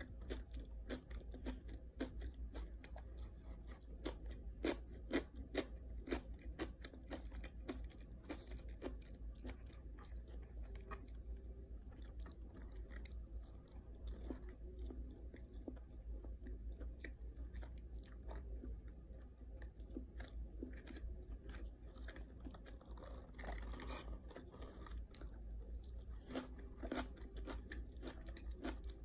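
Close-up chewing and crunching of cabbage kimchi: crisp crunches come thick at first, thin out in the middle and pick up again near the end. A steady low hum runs underneath.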